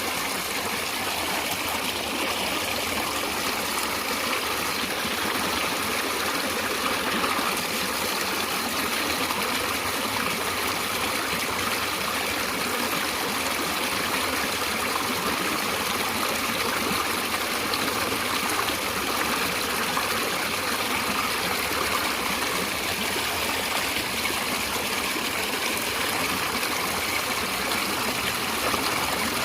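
A stream of running water flowing and trickling with a steady, even rush.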